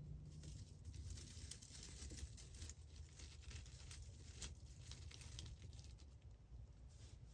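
Faint irregular crackling and rustling from deer at a corn pile, thickest in the first five seconds and thinning out after, over a steady low rumble.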